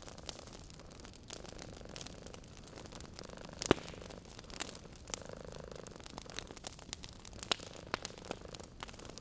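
Wood fire crackling in a fireplace with scattered sharp pops, one much louder pop a little over a third of the way in. Underneath, a cat purrs in slow waves that come and go.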